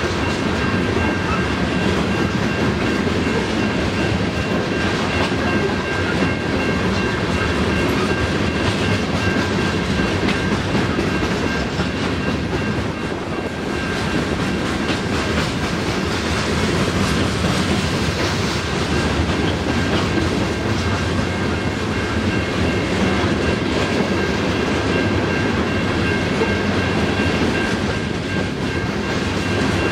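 Canadian National ore train's loaded cars rolling steadily past at speed, the wheels running on the rails throughout.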